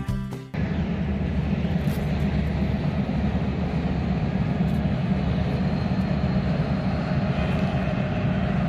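Steady low rumble of a freight train on the move, with its diesel locomotives running, after a music tail fades out in the first half-second.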